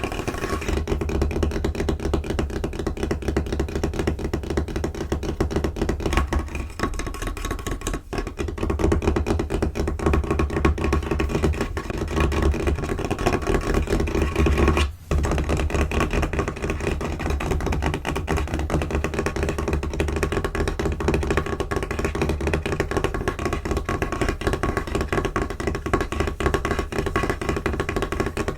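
Fast, rapid tapping with fingers and nails on a tabletop, a dense run of sharp taps broken by a brief pause about halfway through.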